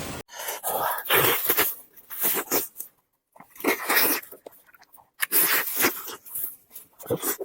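Close-miked chewing and lip-smacking of food, in irregular bursts with short pauses.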